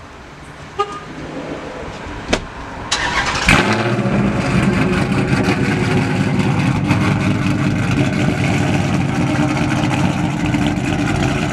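5.7-litre V8 warm-started through a freshly welded exhaust. The starter cranks briefly about three seconds in, and the engine catches with a short loud burst. It then settles into a steady, deep idle.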